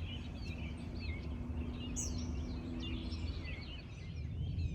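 Morning birdsong: many small birds chirping and singing at once, over a low rumble. A low steady hum sounds through the first three seconds.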